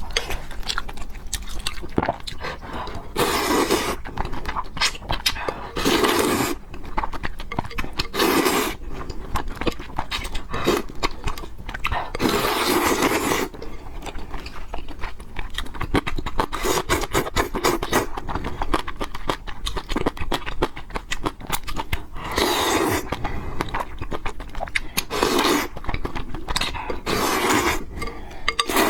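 Close-miked eating of fried noodles with pork: continual wet chewing and lip-smacking clicks, broken by about eight loud slurps, each up to a second or so long.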